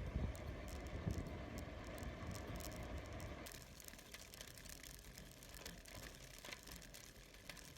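Loaded bicycle rolling along: tyre rumble with the bike and its luggage rattling, the rumble dropping quieter about three and a half seconds in.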